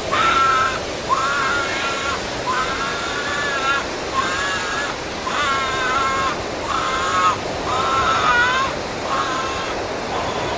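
A run of about eight similar drawn-out cawing calls, each under a second and evenly spaced, over a steady rushing noise like wind.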